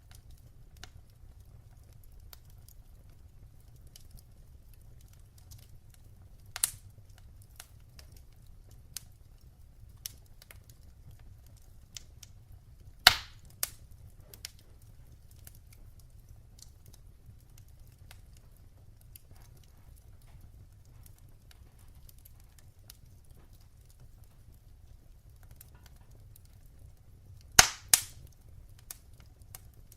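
Wood fire in a fireplace crackling: scattered small ticks over a low steady rumble, with a few sharp pops, the loudest around the middle and a close pair near the end.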